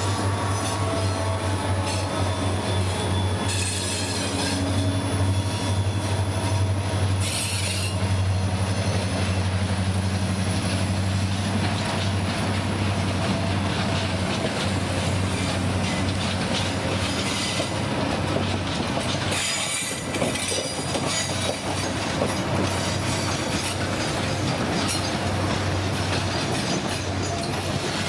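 Freight train rolling by with a steady low rumble of wagons on the rails. High wheel squeal comes and goes several times, with clicking of wheels over the rail joints.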